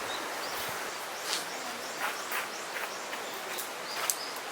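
Outdoor ambience: a steady hiss with a few short bird chirps and several sharp clicks, the sharpest about four seconds in.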